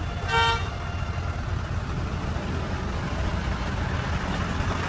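Toyota Land Cruiser SUV engine running with a low steady rumble as the vehicle creeps at low speed, with one short pitched beep about a third of a second in.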